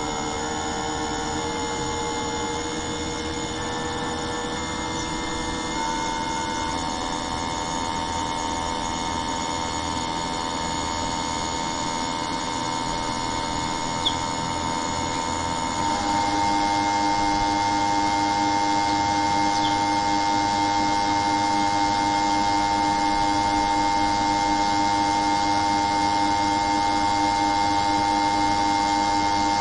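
A machine running with a steady, even whine of several held tones. The whine steps to a new pitch about six seconds in, then steps again and grows louder about sixteen seconds in, with one brief tick just before.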